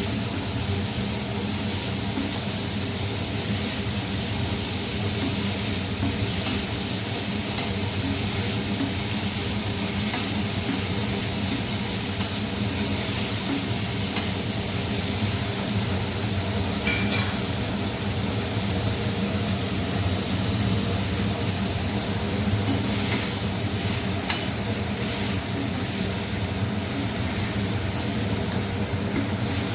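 Chopped onions sizzling steadily as they sauté in sesame oil in a kadai, stirred now and then with a spatula that clicks and scrapes against the pan. A steady low hum runs underneath.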